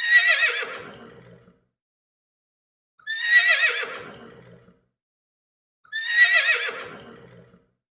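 A horse whinnying three times, about three seconds apart: each whinny is the same call, starting high with a quavering warble and falling away lower.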